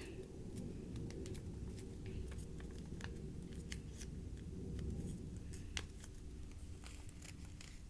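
Small square of paper being handled and folded by hand: scattered light crinkles and sharp little clicks over a low steady hum.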